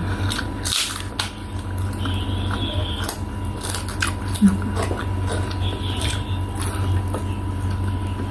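A person chewing and eating close to the microphone: soft wet mouth sounds with many small irregular clicks, over a steady low hum.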